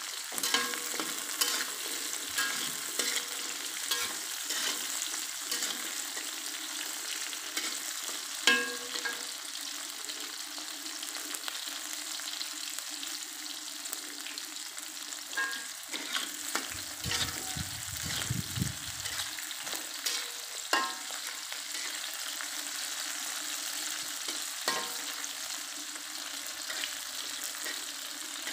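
Shallots, garlic and chilies sizzling in oil in a metal wok, a steady hiss, with the metal spatula now and then clicking and scraping against the wok as they are stirred. The spices are being fried until half cooked.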